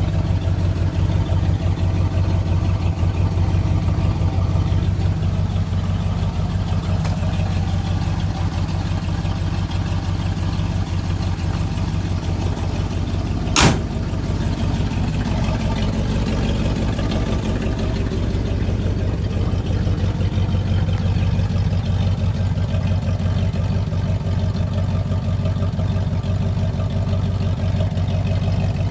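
1969 Chevrolet C30 one-ton truck's engine running steadily, with one sharp click about halfway through.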